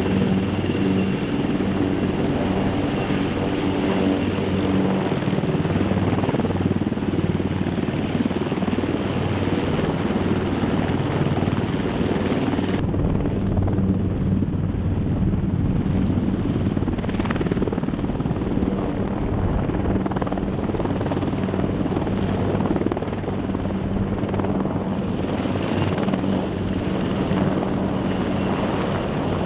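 Marine Corps H-1 helicopter, twin-turbine with a four-bladed rotor, running steadily with a constant rotor and turbine hum. The sound changes abruptly about 13 seconds in, losing some of its higher hiss.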